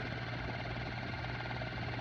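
Technicolor model 810 cartridge film projector running: a steady motor hum and whir with a fine, even, rapid texture from the film mechanism.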